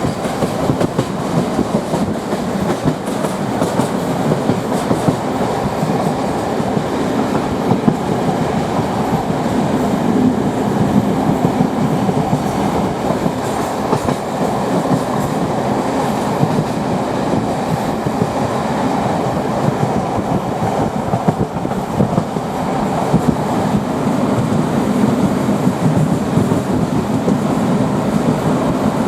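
D1 diesel multiple unit running along the line, heard from inside the carriage: the steady noise of the moving train with the clickety-clack of its wheels knocking over rail joints.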